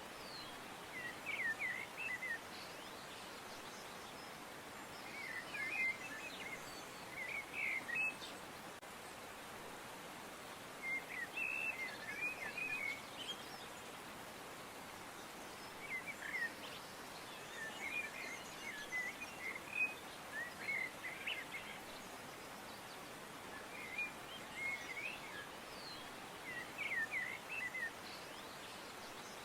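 Small birds chirping in short bursts every few seconds over a steady background hiss.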